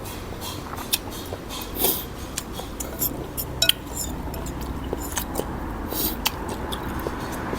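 Eating at a noodle bowl: utensils clicking and clinking against the bowl in scattered short clicks, with brief noisy bursts between them.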